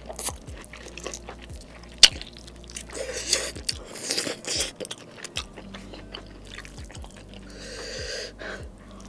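Close-up mouth sounds of chewing steak and saucy noodles: wet smacks and many small clicks, one sharp click about two seconds in, and short wet squishing stretches in the middle and near the end.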